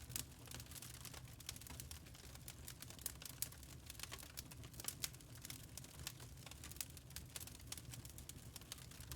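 Wood fire burning in a fireplace: a low steady rumble of flames with many irregular sharp crackles and pops from the burning logs.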